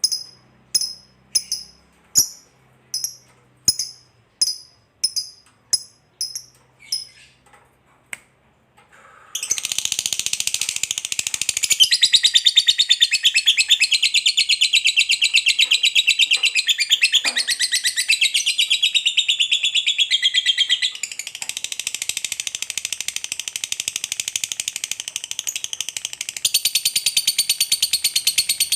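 Lovebird's long ngekek: a fast, unbroken high-pitched chattering trill that begins about a third of the way in and runs on, easing slightly and then getting louder again near the end. Before it come evenly spaced rattling strikes, like a tambourine, that fade out.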